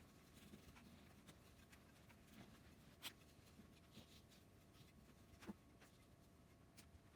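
Near silence: room tone, with a few faint clicks, the clearest about three seconds and five and a half seconds in.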